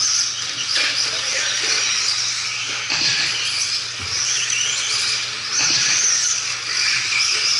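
Several radio-controlled 2WD stadium trucks racing, their electric motors whining high and rising and falling in pitch as the drivers work the throttle.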